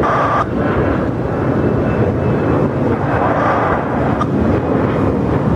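Jet airliner engines running with a loud, steady rumble and roar.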